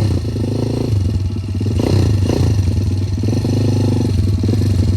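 Enduro dirt bike engine running under way, its pitch rising and falling with the throttle, with a couple of quick revs about two seconds in.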